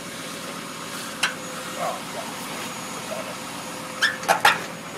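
A truck engine idles steadily. A dog barks a few short times near the end.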